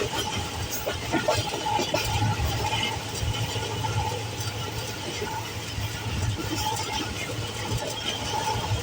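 Steady running noise of a passenger train heard from inside the coach: a constant low rumble with a faint steady whine.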